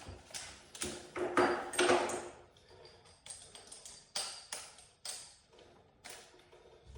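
A string of sharp metallic clinks and taps with a short ring, several strong ones in the first two seconds, then fainter and more spread out: metal tools or hardware knocking together during garage door spring work.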